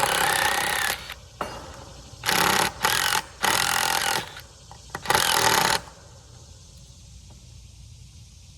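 A power driver sinking deck screws into 2x4 lumber in five bursts: one about a second long at the start, then four shorter ones between about two and six seconds in.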